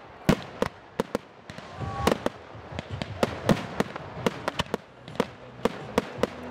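Aerial fireworks going off in a rapid, irregular string of sharp bangs and cracks, about three a second.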